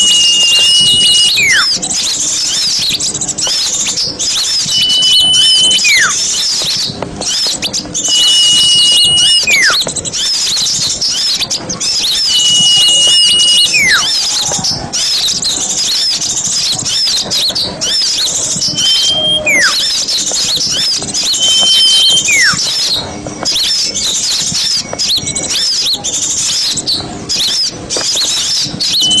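A flock of small birds chattering busily with dense, high chirps, played as a lure for forest birds. Every few seconds a clear whistled note is held briefly and then drops steeply in pitch.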